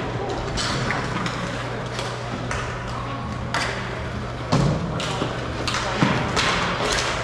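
Repeated thuds and knocks echoing in a large hall over background voices, with two louder thumps about four and a half and six seconds in.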